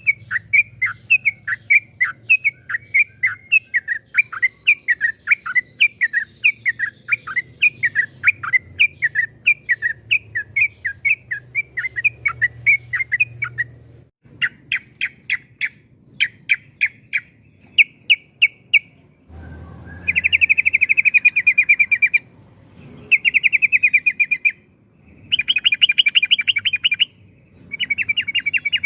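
Yellow-vented bulbul (trucukan) singing: a fast run of repeated chirping notes, a few separate notes, then from about two-thirds in several long rapid trills of one to two seconds each, the drawn-out rolling phrases bird keepers call "ropel panjang".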